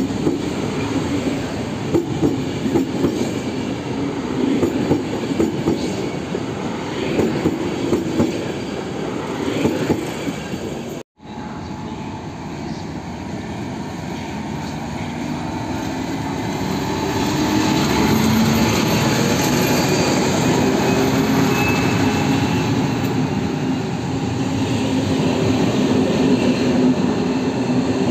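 Passenger coaches rolling past with their wheels knocking over the rail joints. After a break about eleven seconds in, a locomotive-hauled passenger train draws in alongside, growing louder, with a wheel squeal that slowly glides in pitch.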